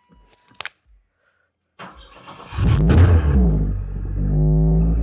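Two short clicks, then the Chevrolet S10 pickup's engine cranking on the starter and catching a little under three seconds in with a brief rev, after which it settles into a steady idle.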